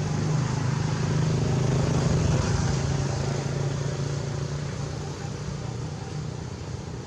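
A motor vehicle engine passing by, with a low hum that grows louder to about two seconds in and then fades away.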